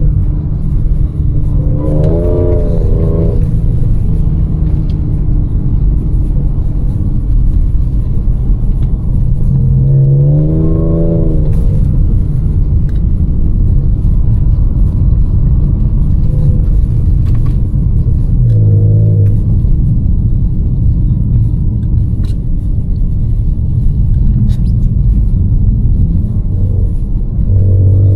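The supercharged 3.0 V6 of a stage 1 tuned Audi S5 (resonator-deleted stock exhaust) driving in snow, with a steady engine and tyre drone. The engine note rises briefly about four times as the revs come up.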